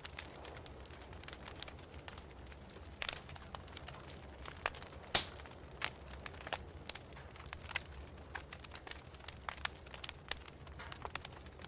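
Wood fire crackling in a fireplace: irregular sharp pops and snaps, the loudest about five seconds in, over a faint low hum.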